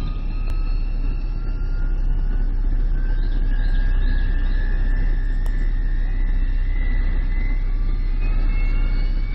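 Steady low rumble of a car engine idling, heard from inside the car, with faint thin whines slowly rising in pitch.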